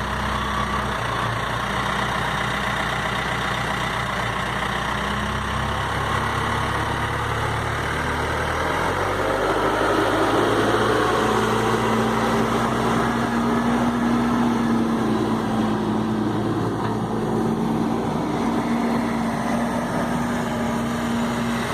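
Case 580 Super M Series 2 loader backhoe's diesel engine running steadily, its note changing about nine seconds in and settling into a steady hum.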